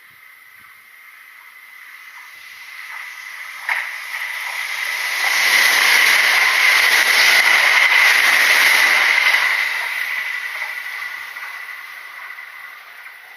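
Kintetsu electric train passing by: it grows louder, is loudest for several seconds in the middle, then fades away, with a steady high-pitched ringing tone throughout. A single sharp click about four seconds in.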